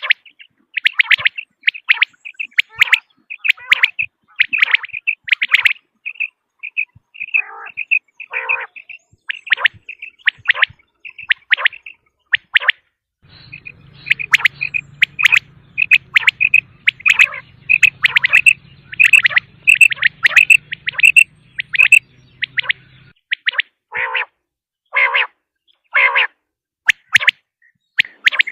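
Quail (batair, the common quail) calling, a dense run of short, sharp chirping notes repeated rapidly, some dropping lower in pitch. A faint low hum runs under the calls through the middle.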